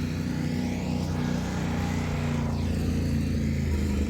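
Motorcycle engine running steadily as it rides past.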